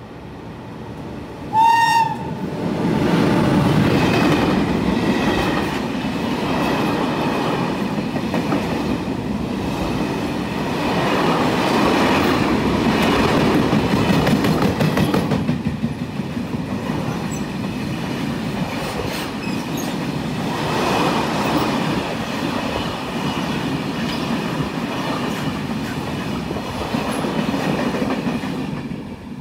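A train horn gives one short blast, then a train passes close by for over twenty seconds: a long rolling rush of wheels on rail that swells and eases several times, with a faint high whine. The sound drops away abruptly near the end.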